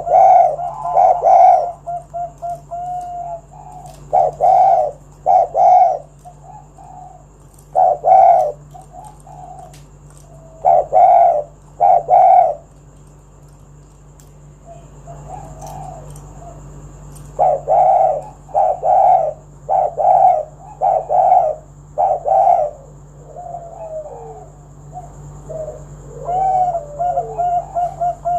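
Spotted dove (tekukur) cooing: phrases of a few short, deep coos repeated over and over, with gaps of a few seconds between bursts and a longer pause about halfway through. A faint steady hum sits beneath the calls.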